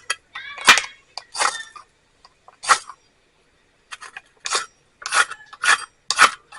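Steel striker scraped hard against a piece of flint to throw sparks, about seven short, sharp rasping strikes at uneven intervals.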